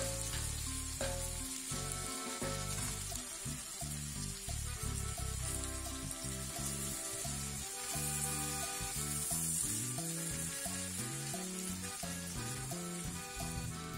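Chicken pieces and green chillies frying in oil in a non-stick frying pan, a steady sizzle, as they are turned with a silicone spatula. Background music plays along with it.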